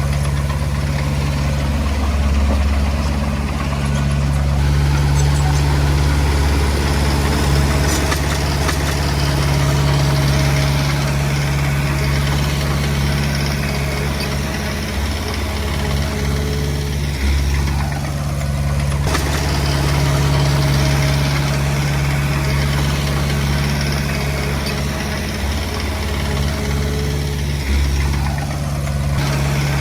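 Komatsu D20P bulldozer's diesel engine running steadily with a low drone that dips and swells briefly a few times.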